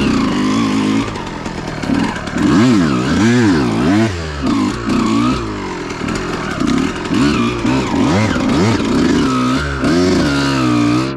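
Dirt bike engine revving up and down over and over, its pitch rising and falling in quick swings, while the clutch is slipped hard enough to burn it out.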